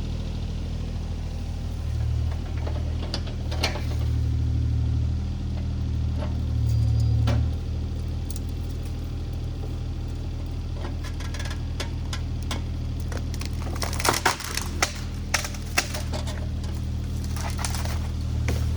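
Diesel engine of a compact earthmoving machine running steadily, rising under load twice in the first half. In the second half comes a run of sharp cracks and knocks, densest a couple of seconds past the middle.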